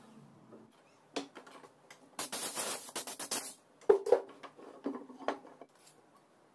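Workshop handling noises: scattered clicks and clatters, a rough scraping stretch a couple of seconds in, then sharp knocks around the middle, as tools and workpieces are moved and set down.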